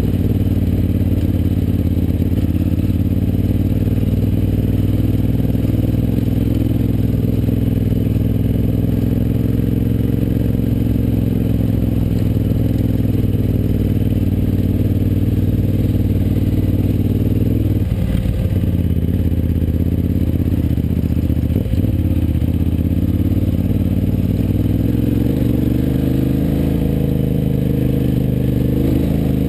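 KTM 950 Adventure's V-twin engine running steadily at low speed as the bike rides along a rough dirt track, with brief changes in the engine note about eighteen and twenty-two seconds in.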